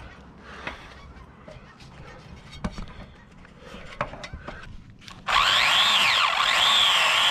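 Light clicks and handling rustles, then about five seconds in a power saw starts up suddenly and runs loud, its whine wavering up and down in pitch as it cuts.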